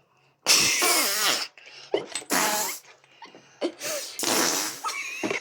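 A string of fart sounds: three long, wavering ones of about a second each, with shorter, quieter ones between them.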